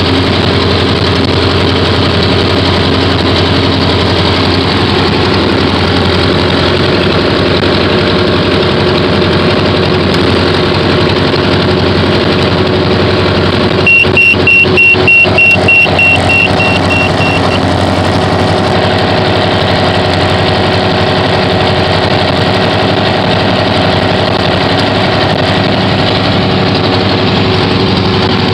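Small aircraft engine idling steadily, muffled. About halfway through, a rapid series of short high beeps sounds over it for a few seconds.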